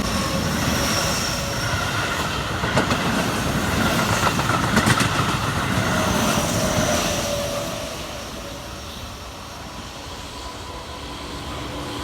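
Keihan electric train passing close by, its wheels clacking over rail joints about three to five seconds in, with a whine from the running gear. The sound fades after about seven seconds, then starts to build again near the end.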